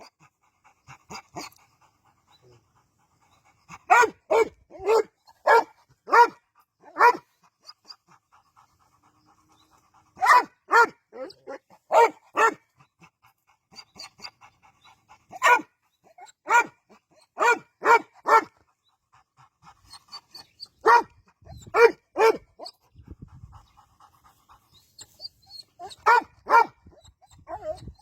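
A dog barking repeatedly in runs of several short, sharp barks, with quieter pauses of a few seconds between the runs.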